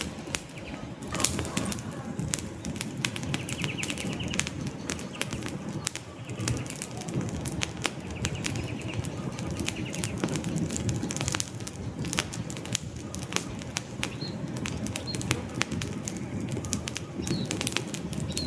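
Wood fire crackling in a fireplace: many sharp pops and snaps over a low, steady rush of flames.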